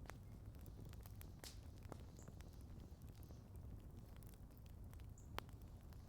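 Campfire crackling faintly: scattered sharp pops and snaps of burning wood, the sharpest about five seconds in, over a low steady rumble.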